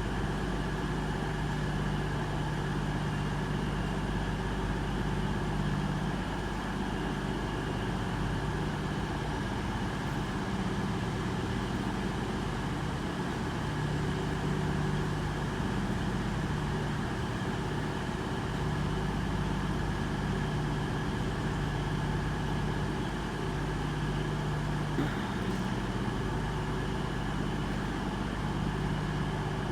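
Diesel train engine idling steadily, a low hum that swells and eases gently every few seconds.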